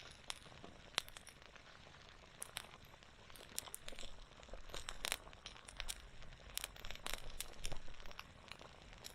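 Wood campfire crackling, with sharp irregular pops and snaps a few times a second.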